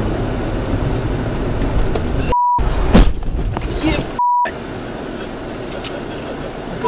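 Steady vehicle and road noise, broken about two seconds in by a short 1 kHz censor bleep, then a sharp loud bang with a ragged burst after it, then a second bleep about four seconds in, after which the road noise returns.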